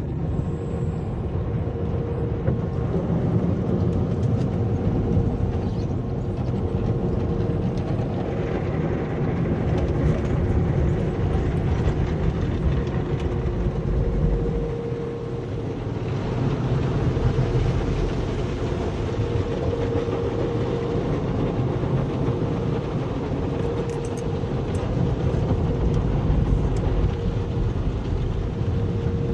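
Automatic car wash machinery running, a steady rumbling wash with a humming tone that swells and fades every few seconds.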